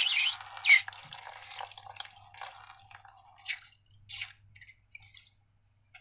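Wet slime squelching and dripping: sticky clicks and pops, busy at first with one loud splat under a second in, then thinning to a few scattered clicks.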